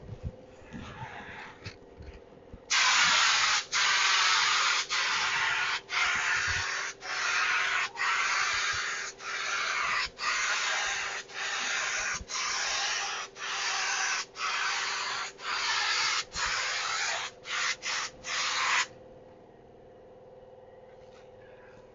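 Paint spray gun hissing as it sprays automotive clear coat, in a run of passes about a second long with brief breaks each time the trigger is let off, ending in a few quick short bursts. It starts about three seconds in and stops with about three seconds to go.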